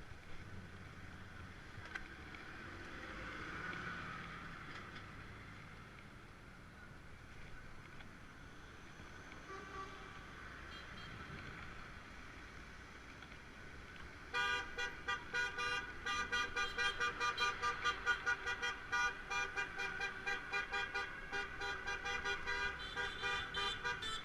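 Vehicle horns sounding in rapid repeated toots, starting a little over halfway through and carrying on to the end, after quieter street noise.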